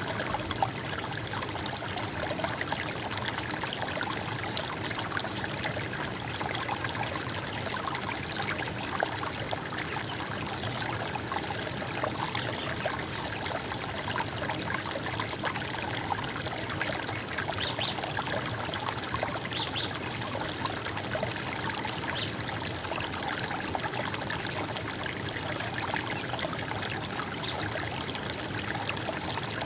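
Running stream water, a steady gurgling and splashing without letup.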